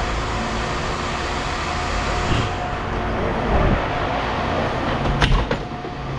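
Steady running hum of an idling vehicle, with a short cluster of sharp knocks about five seconds in.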